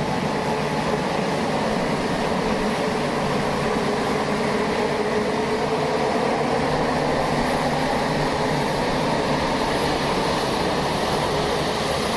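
Boeing 787 airliner on the ground with its engines running steadily at low power, an even rushing hum with a faint steady whine.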